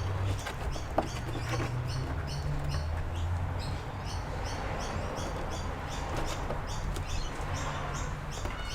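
Rapid, evenly repeated high chirps, about three a second, over a low steady hum, with a single sharp click about a second in.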